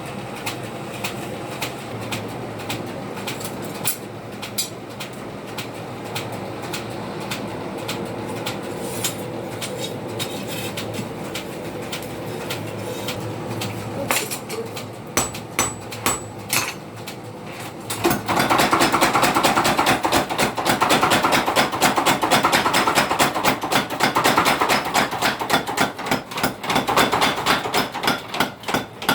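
Hammer striking metal in a blacksmith's forge: a few separate blows a little past the middle, then fast continuous hammering with a metallic ring from about two-thirds of the way in.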